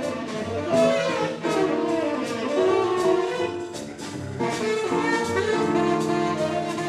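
Jazz band playing an instrumental passage, horns carrying the melody over a steady drum beat.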